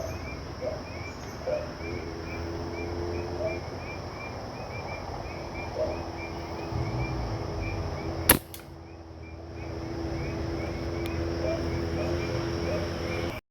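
A single air rifle shot, one sharp crack about eight seconds in, over a steady chorus of night insects chirping.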